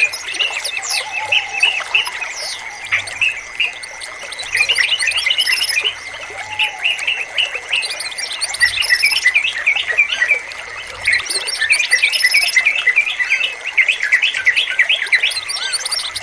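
Yellow-vented bulbul (trucukan) song: rapid bursts of bright chirping phrases, busiest from about four seconds in, over a steady high tone.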